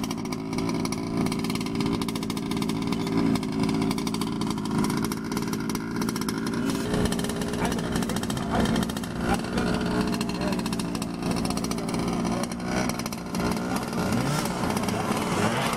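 Small two-stroke engines of large-scale RC cars running, buzzing steadily, with an engine revving up near the end.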